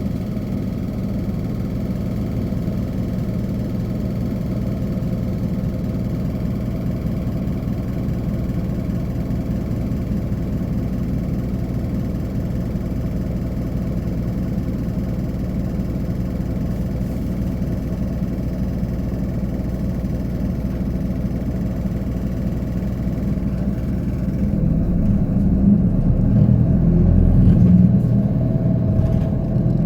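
Hino Poncho city bus's diesel engine idling steadily, heard from inside the bus. Near the end it grows louder and rougher as the bus pulls away.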